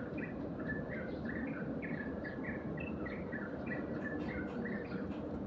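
A flock of Eurasian tree sparrows chirping busily while feeding, a quick run of short, bright chirps several times a second, over a steady low background rumble.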